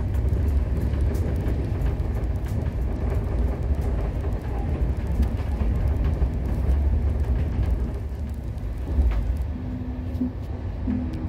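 Moving passenger train heard from inside the carriage: a steady low rumble with faint rattling clicks.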